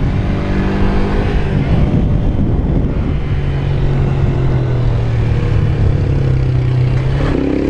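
Honda CG 160 Fan's single-cylinder engine running under way with wind rumble on the microphone. The engine note changes in the first couple of seconds, holds steady through the middle, and shifts to a new pitch near the end.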